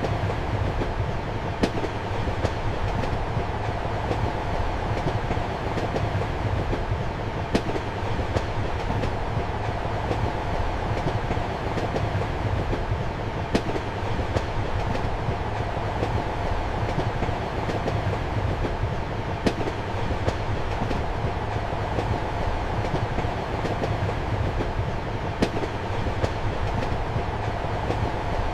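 Steady rumble and hum of a moving passenger train heard from inside a compartment, with a single sharp wheel click at a rail joint about every six seconds.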